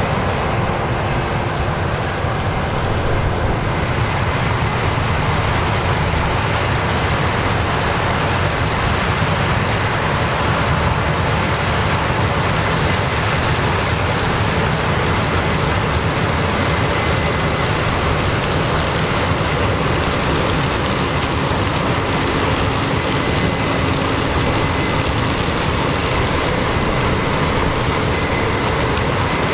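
Combine harvester running steadily while harvesting corn, a loud, even mechanical noise with a faint high whine.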